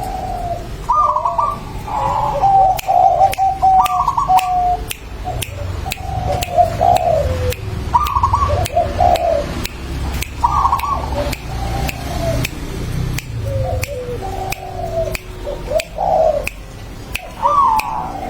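A bird calling over and over in short cooing phrases of dropping, fluttering notes, several phrases with brief gaps between them.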